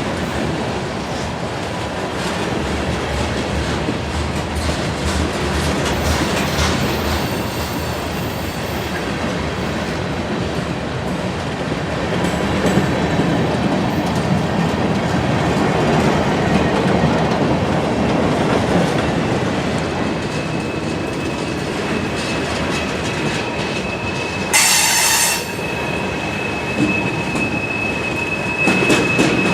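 Freight cars of a manifest train rolling past, a steady rumble with clacking wheels over rail joints. From about two-thirds of the way in a thin, steady, high wheel squeal sets in, with a brief louder screech about three seconds before the end.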